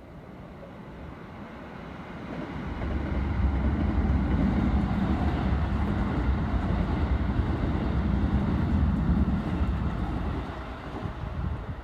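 Electric commuter train passing on the Keikyu Line: the rumble of its wheels on the rails builds a couple of seconds in, stays loud for about seven seconds, and fades near the end.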